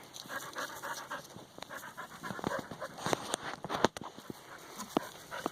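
A dog panting rapidly and rhythmically, with scattered short clicks and scuffs.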